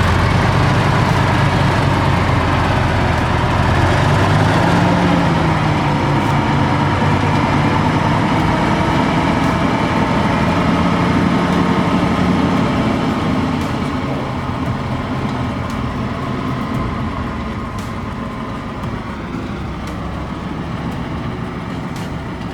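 Heavy diesel engine running steadily, its pitch rising slightly about four seconds in, then fading away over the second half.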